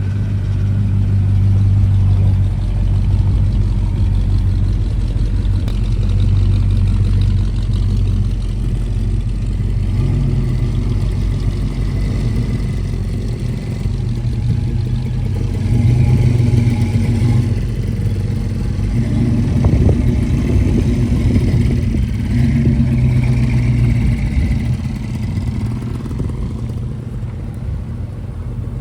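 Car engine running, its pitch rising and falling a few times as it is revved.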